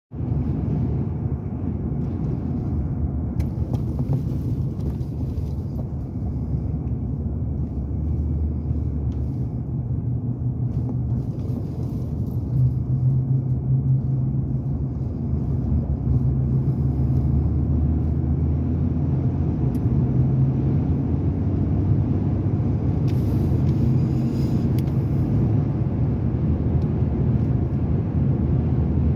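Car driving on the highway: a steady low rumble of engine and road noise.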